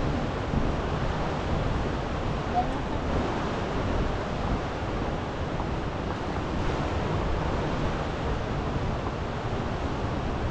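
Steady rushing noise of a river in heavy flood, with wind buffeting the microphone.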